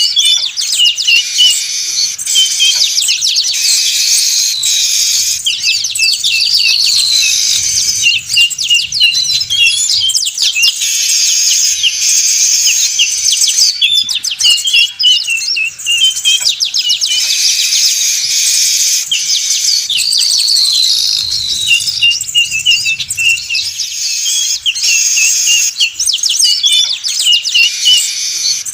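A noisy chorus of weaver birds (manyar) chattering: dense chirps, buzzy trills and sweeping whistles with no break, the same passage repeating about every fourteen seconds as a looped bird-lure call.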